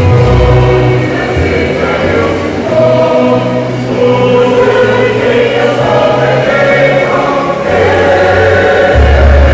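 A choir singing a gospel piece, several voice parts together over deep held bass notes that change every second or so.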